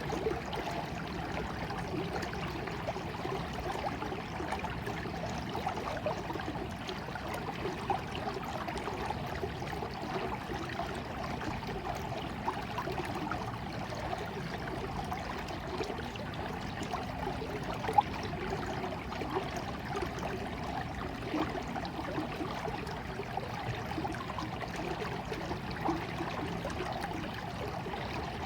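Flowing water, a steady rush with small splashes throughout and one sharper splash about two-thirds of the way in.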